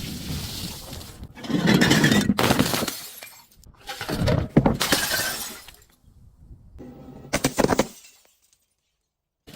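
Glass bottles breaking and shattering in about four separate crunching bursts, the loudest two in the middle, followed by a second or so of dead silence near the end.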